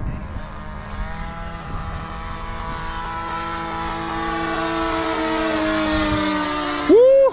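Radio-controlled model airplane's motor and propeller droning at a steady pitch, growing louder as the plane comes closer and easing slightly lower in pitch. A short loud voice cuts in near the end.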